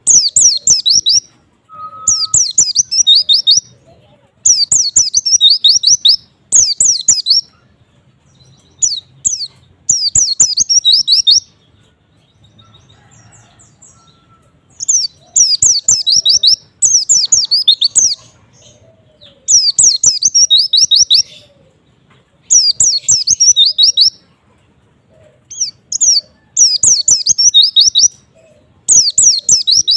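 White-eye (pleci) singing: fast runs of high, quickly falling notes in phrases about a second long, repeated every second or two, with a pause of a few seconds about halfway through.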